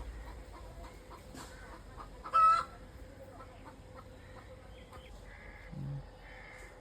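Chickens clucking, with one loud, short squawk about two and a half seconds in and a brief low sound near the end.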